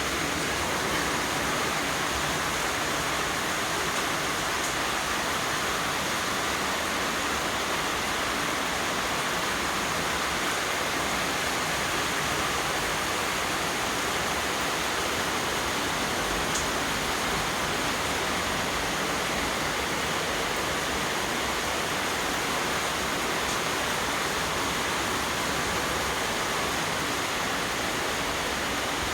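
Steady monsoon rain falling on a garden, an even, unbroken hiss.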